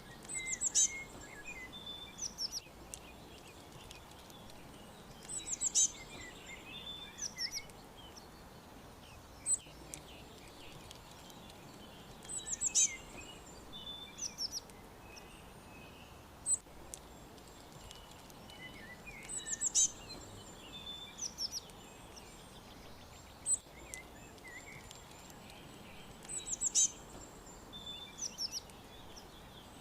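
Birds chirping in short, high-pitched bursts: a cluster of quick, falling chirps about every seven seconds, with single sharp notes between them, over a steady faint hiss.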